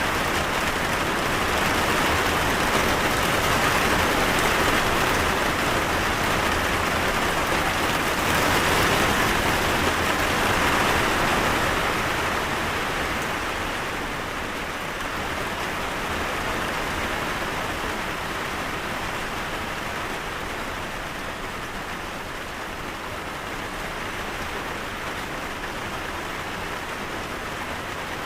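Steady rain falling, a dense even patter that eases slightly partway through.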